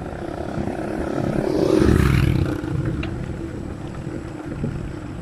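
Wind rumbling on the microphone while cycling along a road, with a motor vehicle passing close by: its drone swells to loudest about two seconds in, then fades.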